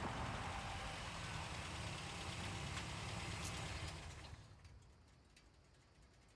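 A car's engine running as it pulls up and stops; the engine sound dies away about four seconds in, leaving a few faint clicks.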